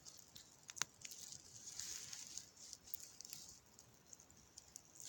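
Small campfire of wet wood and birch bark burning faintly, with scattered small crackles and pops and a soft hiss that swells briefly about two seconds in.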